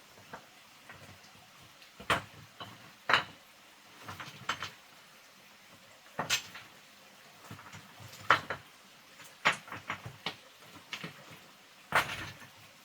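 A series of sharp knocks and clatters of hard objects striking one another, about six loud strikes spread a second or two apart with smaller clicks between them.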